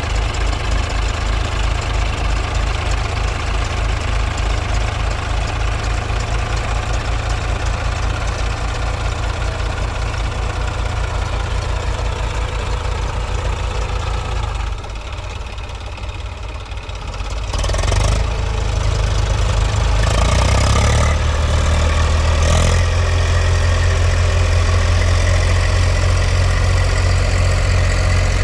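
Tractor diesel engine running at a steady, knocking idle. About fifteen seconds in it drops quieter for a couple of seconds, then revs up and runs louder and steady at higher throttle.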